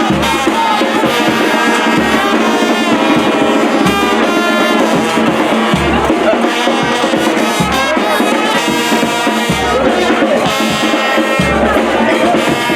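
Brass band music: horns playing a melody over a low drum beat that lands about once a second.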